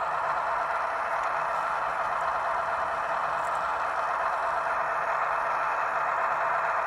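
Diesel locomotive engine sound effect at run speed, played from the throttle over Bluetooth through a small speaker in a model railroad boxcar: a steady running sound with a faint hum beneath it.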